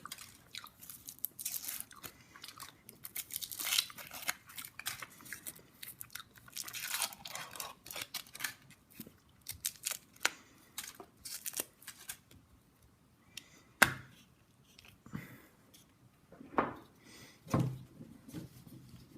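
Foil wrapper of a Kinder Surprise chocolate egg crinkling and tearing in many quick rustles, then a few sharp clicks and knocks from about two-thirds of the way in, as the egg's plastic toy capsule is handled and opened.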